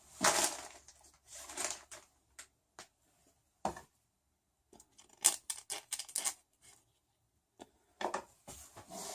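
Short clicks and rustles of small plastic printer parts and zip ties being handled during assembly, with a quick run of clicks in the middle.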